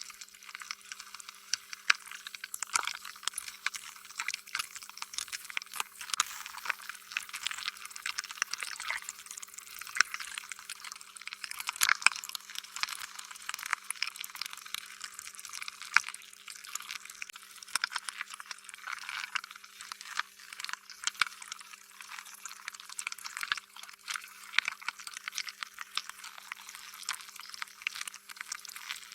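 Slime being squished, stretched and kneaded by hand, with a steady run of wet, sticky squelches and many small sharp pops and crackles.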